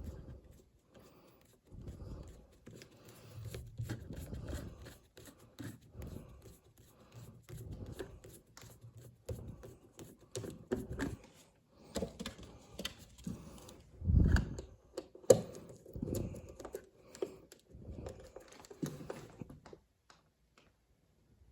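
Hands working on thermostat wiring and its small parts: scattered clicks, rustling and scraping, with a couple of louder dull knocks about two-thirds of the way through.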